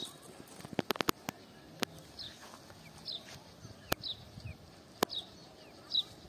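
A bird repeating a short high note that falls in pitch, about once a second, while a cast net is handled, giving sharp clicks: a quick cluster about a second in, then single ones.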